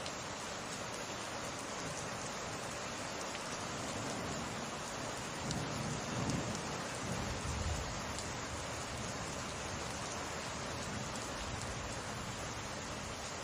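Steady heavy summer rain pattering down, with a low rumble of thunder swelling up about five and a half seconds in and fading out around two seconds later.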